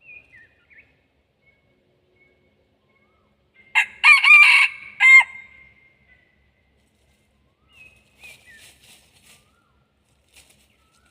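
A red junglefowl rooster crowing once, loud and about a second and a half long, breaking off into a short clipped final note. Fainter bird calls come before it and a few seconds after.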